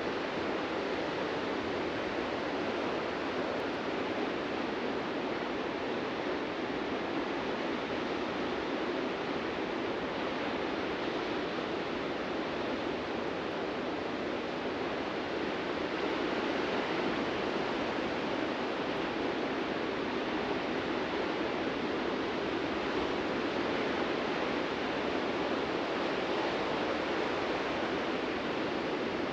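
Ocean surf breaking continuously on a beach, a steady, even wash of waves that grows slightly louder about halfway through.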